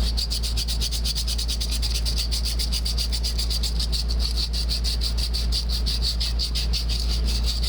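Sand cloth rubbed quickly back and forth around a copper refrigerant line-set pipe, a fast even rasping of about eight strokes a second, cleaning the copper ahead of cutting and soldering.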